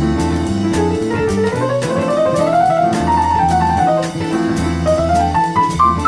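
Background music: a jazzy piano tune with a bass line and a light drum beat, its melody climbing in a run of quick notes and then falling.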